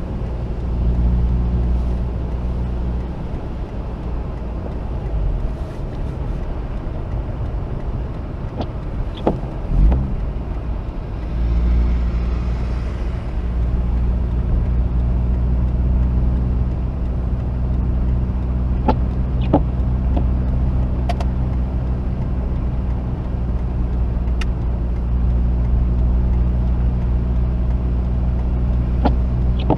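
Mazda RX-8's twin-rotor rotary engine and its tyres while driving: a steady low drone that eases off for a few seconds and builds again just after a thump about ten seconds in, with scattered sharp clicks.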